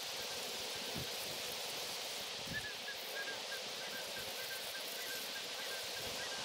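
Steady outdoor background hiss. From about two and a half seconds in, a bird gives a quick run of short, evenly pitched chirps, about four a second.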